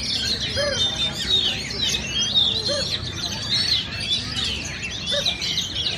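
Many oriental magpie-robins (kacer) singing at once, a dense tangle of overlapping whistled phrases and quick chirps.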